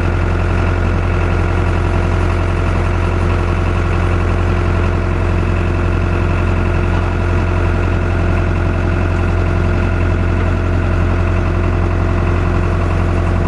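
Tractor engine idling steadily, a low even hum with no change in speed.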